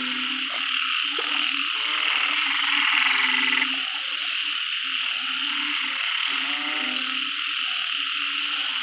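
A dense chorus of frogs calling after heavy rain: many overlapping low, repeated croaks under a steady high hiss of massed calling, which swells briefly near the middle.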